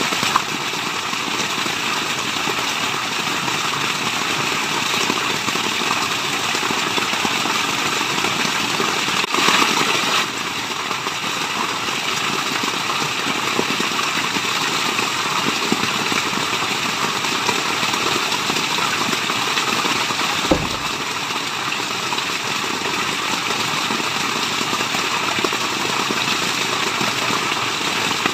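Steady rushing water, an unbroken wash of white noise, swelling briefly about nine seconds in.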